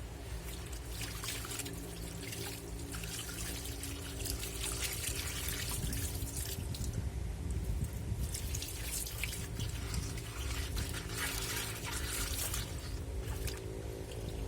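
Washing machine running its wash cycle: water sloshing and splashing in the tub over a steady motor hum, the sloshing growing louder a few seconds in.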